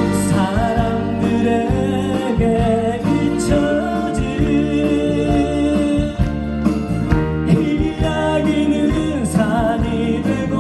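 Live concert music: a band accompanying singing voices, with held, wavering sung notes over steady instrumental chords.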